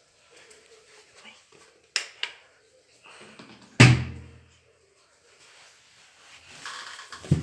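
Two sharp knocks, then a loud deep drum-like boom with a short low ring just under four seconds in, and another thump near the end.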